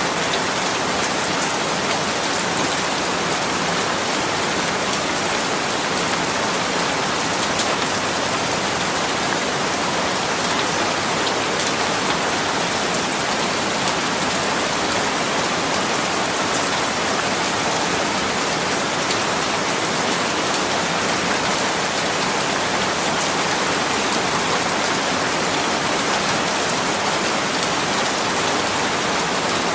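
Steady rain falling and pattering on a surface, an even hiss with many fine drop ticks throughout.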